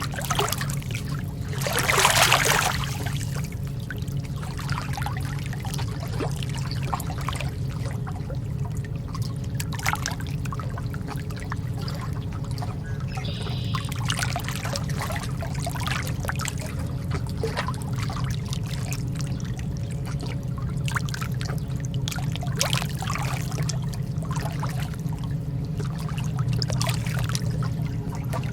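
Calm lake water lapping, with irregular small splashes and a louder splash about two seconds in, over a steady low rumble.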